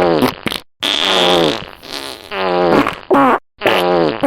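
Cartoon fart sound effects: a string of about five long, pitch-wobbling farts one after another, the laxative in the children's drink taking effect.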